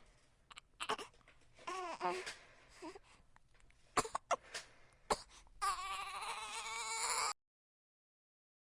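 Baby crying: a string of short fussing cries, then a longer wavering cry that cuts off suddenly near the end.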